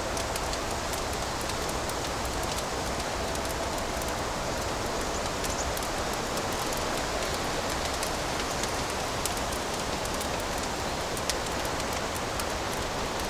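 Fire crackling in a fireplace: a steady hiss with many small scattered pops and snaps, one a little louder about eleven seconds in.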